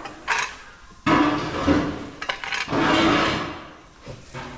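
Stall fork working through horse bedding: about four scraping, rustling scoops and shakes, with light clinks of the fork.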